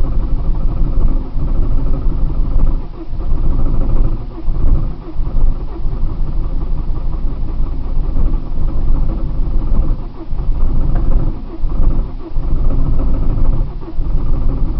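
Starter cranking the cold 1999 Saturn SC1's 1.9-litre four-cylinder engine, which turns over steadily without catching, dipping briefly in level a few times. The owner suspects a clogged fuel filter, which on these Saturns also regulates fuel pressure.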